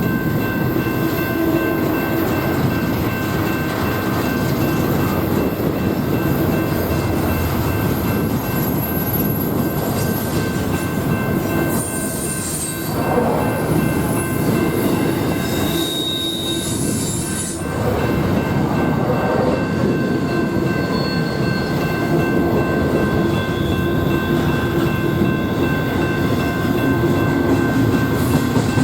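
A train rolling past on the rails, a steady loud rumble of railcars going by for the whole stretch, with a few thin steady high-pitched tones over it.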